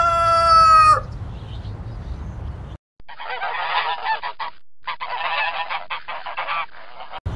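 Domestic fowl calling: a long held call ends about a second in, then after a brief drop-out comes a rapid run of harsh repeated calls in two bouts with a short break between them.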